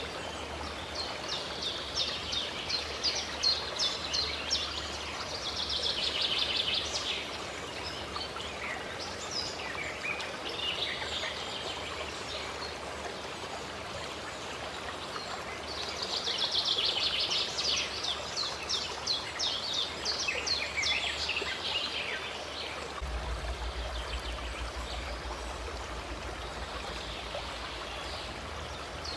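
Steadily running water with birds singing over it: two long spells of fast, repeated high chirps and trills.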